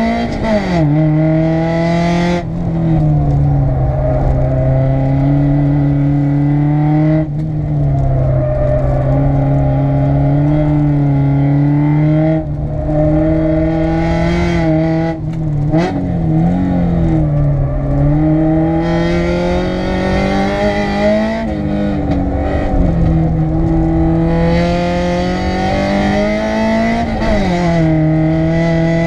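Honda VTEC engine under hard throttle, heard from inside the cabin on a track lap. The note holds high for long stretches and falls sharply in pitch several times as the driver lifts off for corners, then climbs again; the last drop comes near the end.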